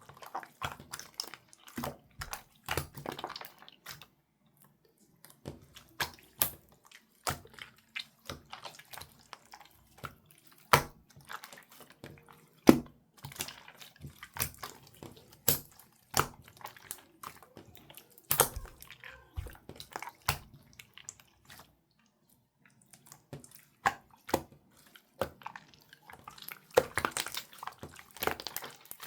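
Bamboo-texture slime being squeezed and stretched by hand, giving off irregular wet clicks and pops with a couple of short pauses.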